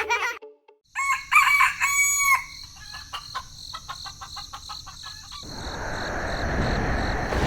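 A rooster crows once, followed by a run of short clucks and ticks. About two-thirds of the way in, a rushing, rumbling noise begins and swells.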